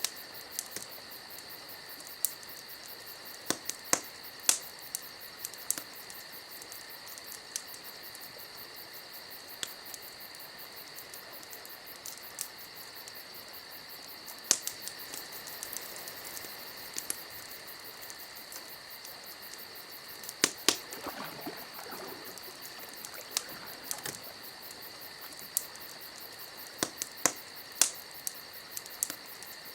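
Fire crackling, with scattered sharp pops and snaps over a steady high hiss.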